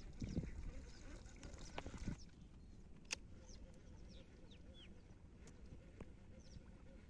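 Birds chirping: many short, high chirps that fall in pitch, scattered all through. There are a few sharp clicks about three, five and a half and six seconds in, and low rumbling noise in the first two seconds.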